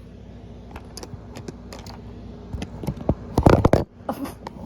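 Handling noise: a run of light clicks and taps, with a louder rustling scrape about three and a half seconds in.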